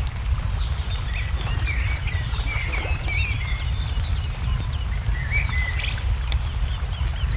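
Wood fire crackling with scattered sharp pops over a low steady rumble, while songbirds chirp and warble in short rising and falling phrases.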